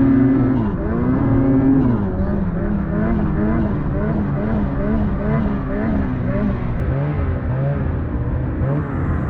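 An engine running steadily under load, its pitch wavering up and down about twice a second.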